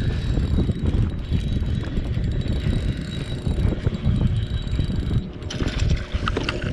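Fishing reel being cranked fast, a steady mechanical whirring clatter as a hooked fish is reeled in, with wind rumbling on the microphone underneath.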